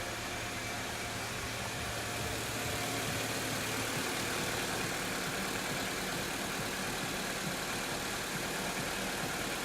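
Lada Largus engine idling steadily, on its first run after standing for seven months.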